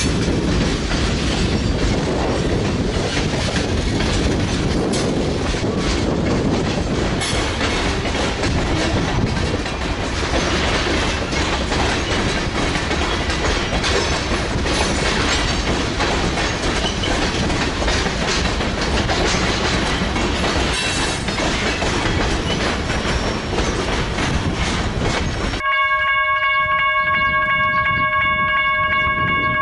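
Union Pacific train rolling past with steady wheel-on-rail rumble and clickety-clack. Near the end the sound cuts suddenly to a locomotive air horn holding a steady chord of several tones.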